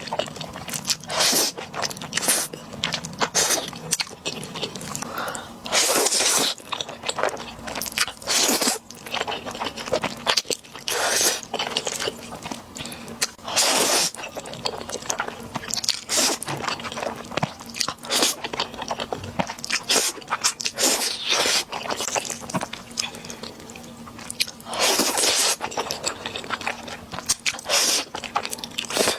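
Close-miked eating sounds of a person biting and chewing Buldak spicy fried noodles with seasoned dried squid strips and butter-grilled squid legs. The chewing comes as a dense run of short, irregular crunches and mouth sounds, with a few longer, louder stretches about 6, 14 and 25 seconds in.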